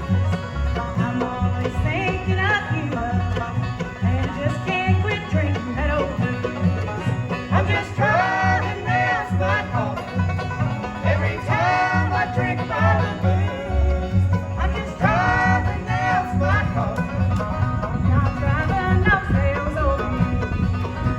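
Bluegrass band playing: banjo rolls to the fore over guitar, mandolin and a steady bass beat, with a lead line sliding in pitch over the top a few times.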